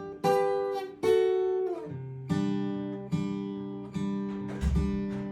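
Acoustic guitar fingerpicked slowly, single plucked notes and chord tones about once a second, alternating between bass notes and the top of the chord, each left to ring out. Between about one and a half and two seconds in, a note slides down the neck.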